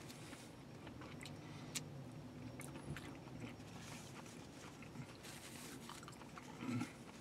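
Faint chewing of a crunchy-crusted fried chicken fillet sandwich: soft mouth noises with small scattered clicks. A short, louder low sound comes near the end.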